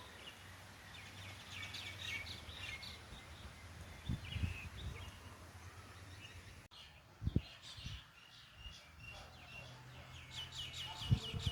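Small birds chirping in short, quick series over a low steady hum, with a few low thuds in between.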